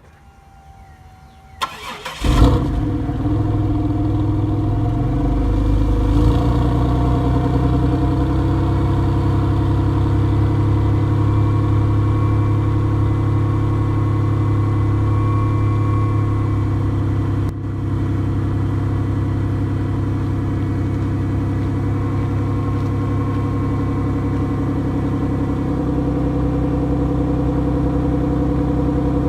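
Supercharged 3.8-litre V6 of a 2004 Pontiac Grand Prix GTP heard through its exhaust: it is started, catches with a loud flare about two seconds in, then settles into a steady idle that drops slightly lower near the end.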